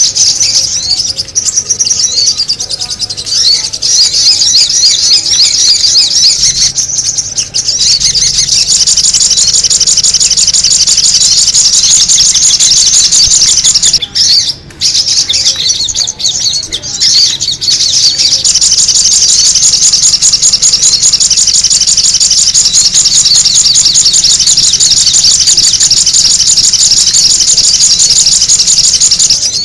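Sogon bird calls played as a bird lure: loud, rapid, high-pitched chattering that runs almost without a break, with a brief pause about halfway through.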